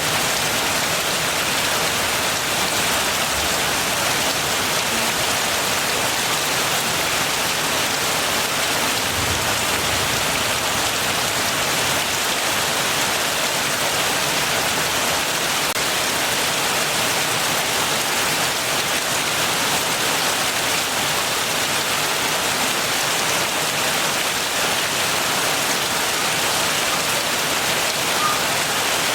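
Steady heavy rain falling, an even, unbroken hiss of drops.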